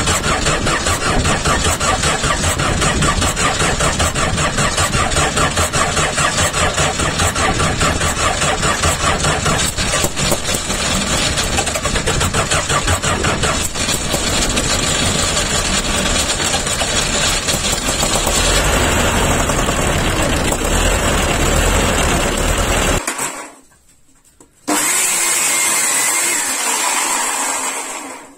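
An engine running loud and steady with an even firing rhythm, its sound changing about two-thirds of the way through, then cutting off suddenly. After a brief gap a second, thinner-sounding engine runs for a few seconds and dies away at the end.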